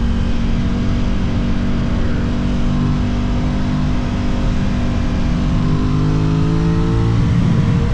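Engine of an Aprilia RS660 sport bike heard from onboard, holding steady revs and then climbing steadily in pitch over the second half as it accelerates.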